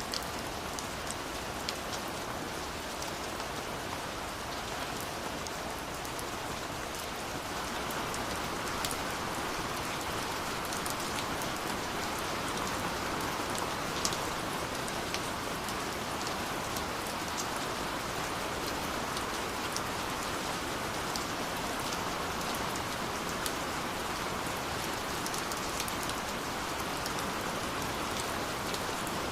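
Steady rain falling, a continuous hiss with many individual drops ticking on a surface; it grows a little heavier about seven seconds in.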